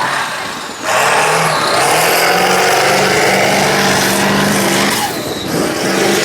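Mega truck engine at full throttle on a mud bog run, jumping up in loudness about a second in and holding a high, steady pitch for about four seconds before easing off.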